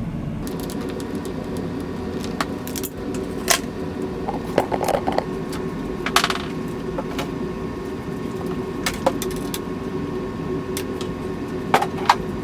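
Scattered clicks, clinks and rattles of hand tools, bolts and plastic body panels being handled while a dirt bike's plastics, seat and tank are taken off, over a steady low hum.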